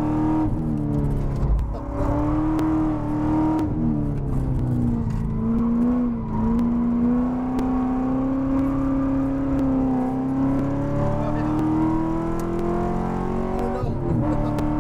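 Chevrolet Corvette C6 Z06's 7.0-litre LS7 V8 at racing speed. Its pitch steps down over the first few seconds as the car brakes for a corner, holds lower through the turn, then rises steadily under hard acceleration, with a quick drop at an upshift near the end.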